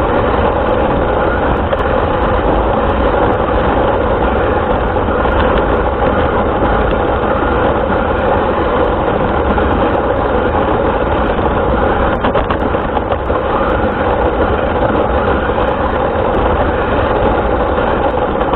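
RC car's motor and drivetrain running steadily, with rumble from the wheels on the ground, picked up by its onboard camera's microphone.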